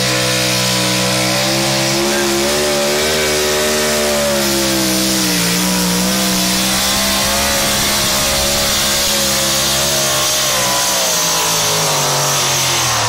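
A pulling vehicle's engine running at high revs under full load during a pull. Its pitch holds fairly steady with slow wavers, dips briefly about halfway through and sags slightly near the end.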